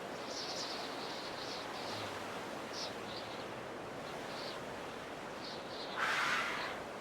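Outdoor bush ambience: a steady hiss of background noise with short, high bird chirps recurring every second or so. About six seconds in, a brief, louder rush of noise lasts under a second.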